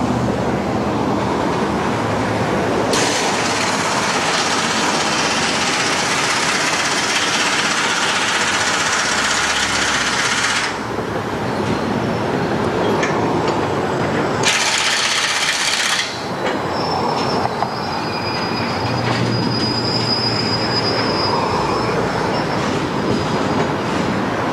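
A train passing, its wheels running on the rails in a steady loud rush, with thin high-pitched squealing tones from the wheels in the second half.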